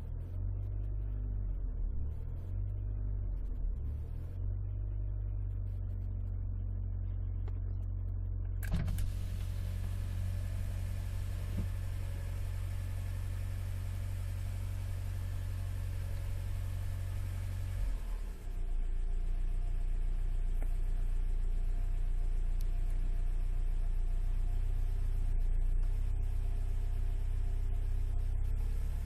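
Alfa Romeo 156 driving, heard from inside the cabin: a steady low engine and road drone. About nine seconds in a broad hiss joins it, and a little past halfway the sound steps up and stays louder.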